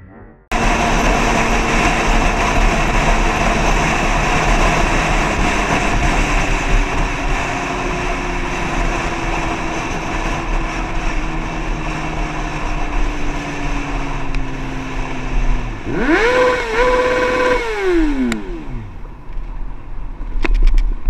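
A motorcycle on the move in traffic: steady engine and road noise that starts abruptly, with a slowly falling engine note. Near the end a pitched sound rises, holds for about a second and then drops away steeply.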